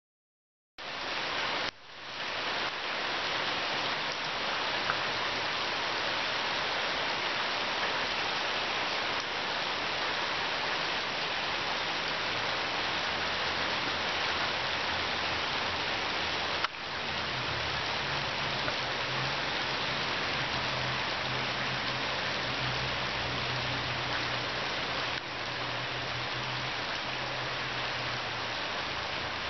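Heavy rain pouring steadily, a dense, even hiss of downpour that starts about a second in. A low steady hum joins about halfway through.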